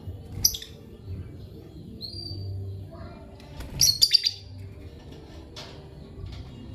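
Lovebirds chirping: a sharp high chirp about half a second in, a short whistled note, then a loud burst of rapid chirps around four seconds, over a steady low hum.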